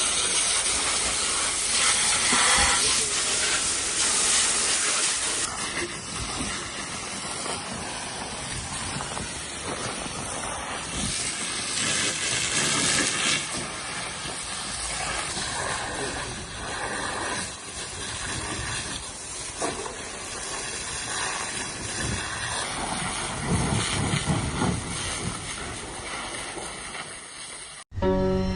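Fire hose water spraying onto a fire, a steady hissing of water and steam, with faint voices under it. It cuts off abruptly near the end.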